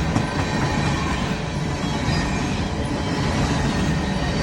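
BNSF coal train of empty coal cars rolling past, a steady rumble of steel wheels on the rails with a faint wheel squeal.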